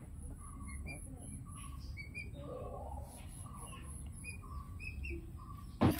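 Small birds chirping in short repeated notes over a low steady hum, then a sudden loud knock near the end.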